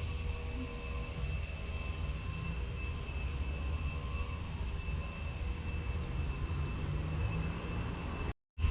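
A machine running with a steady high-pitched whine over a low rumble; the sound drops out briefly near the end.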